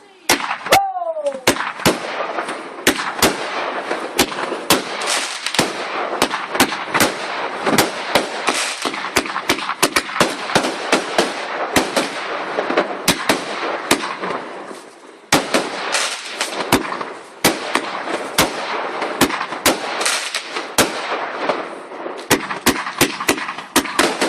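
Fireworks going off in a continuous barrage: a rapid string of sharp bangs over a dense crackle, easing briefly about fourteen seconds in before building again.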